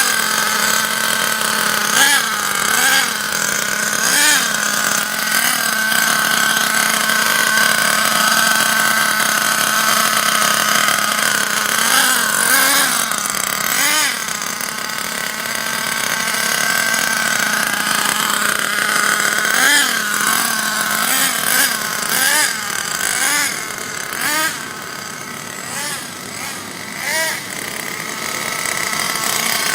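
Thunder Tiger RTA4 truck's small S28 nitro engine running with a high-pitched buzz and revving up and down in short bursts again and again, as in a break-in run.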